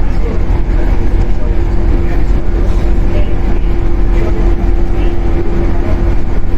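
Cabin sound of a Shinano Railway 115 series electric train car running on the line: a loud, steady low rumble of wheels on rail with a constant hum.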